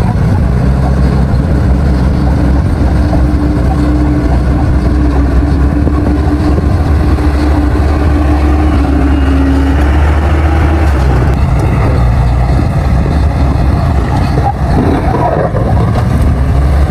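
Diesel engine of a D60 crawler bulldozer running loud and steady under load while pushing soil, with a steady whine that dips slightly in pitch and stops about ten seconds in.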